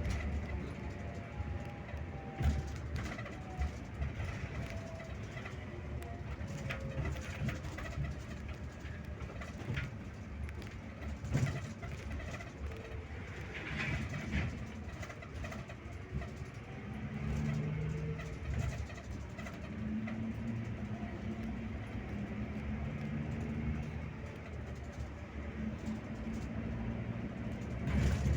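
Scania K360IB bus on the road: a steady low diesel drone and road rumble, with the engine note shifting in pitch several times and scattered rattles and knocks. A falling whine runs through the first few seconds.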